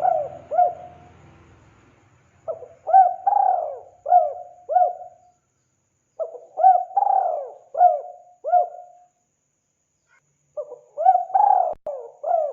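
Spotted dove (tekukur) calling: the tail of one phrase, then three full phrases of five or so quick, rolling coos, each phrase about three seconds long with short pauses between.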